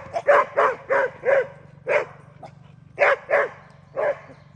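A dog barking in play: about ten short, sharp barks in quick runs with brief pauses between them.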